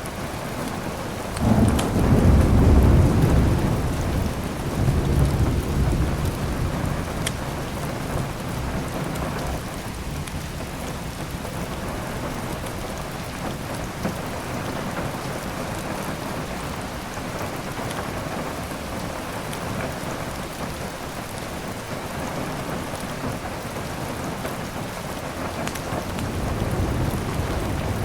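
Steady heavy rain, with a roll of thunder breaking about a second and a half in and rumbling for several seconds, and another low rumble near the end. A few faint crackles from a fireplace.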